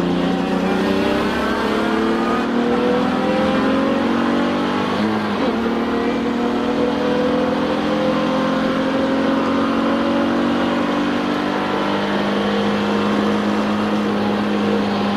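Touring race car's engine heard from inside the car under acceleration. Its pitch climbs slowly and steadily, with a brief break about five seconds in, and levels off near the end.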